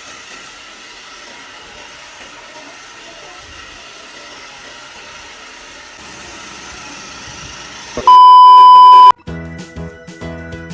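A steady hiss for about eight seconds, then a loud, steady one-second electronic beep at a single pitch, cut off suddenly; music with distinct notes begins just after.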